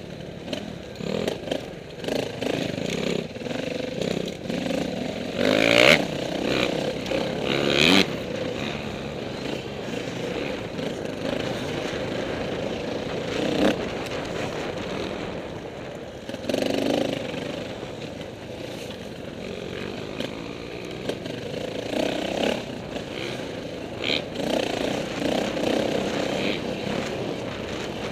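KTM 450 dirt bike's single-cylinder four-stroke engine running and revving up and down as it is ridden off-road. There are sharp knocks and clatters, the loudest about six and eight seconds in.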